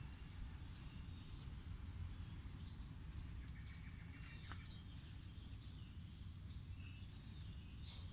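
Small birds chirping off and on, with a short rapid trill near the end, over a steady low background rumble; a few faint clicks come around the middle.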